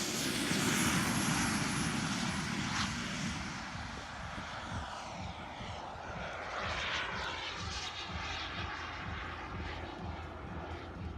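Turbine engine of a large radio-controlled model jet roaring past on take-off, with a thin high whine. It is loudest at the start and slowly fades as the jet flies away.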